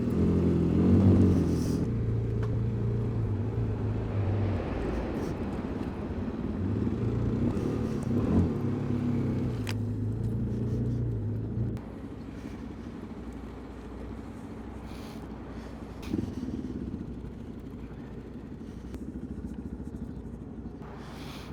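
Kawasaki KLX250 single-cylinder four-stroke dual-sport engine running at low speed, its note rising and falling with a short rev about eight seconds in. About twelve seconds in the engine note drops away, leaving a quieter low rumble.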